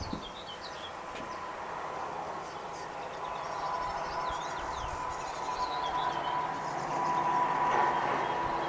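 Small birds chirping in short downward-sweeping calls over a steady mechanical hum from a distant engine, which grows louder toward the end.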